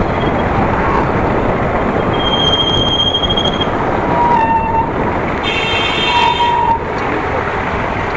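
Steady wind and road rush from riding a motorcycle, with several short, high-pitched tones, the longest held for about a second.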